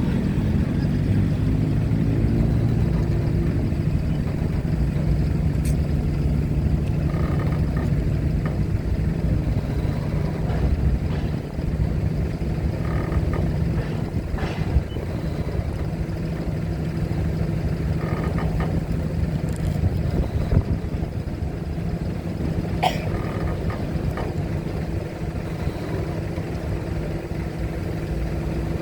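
Engines idling steadily with a low hum, with a few short sharp clicks or knocks.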